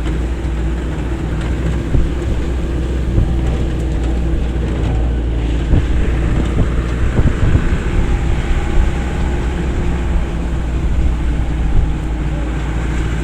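Vehicle driving: a steady engine rumble with wind buffeting the microphone, and a few short knocks from bumps along the way.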